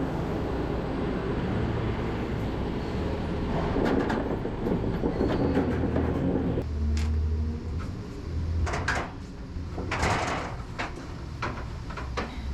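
A steady low engine rumble with scattered knocks and clanks, typical of cargo being loaded. The sound changes abruptly about halfway through, and a cluster of sharp knocks comes near the end.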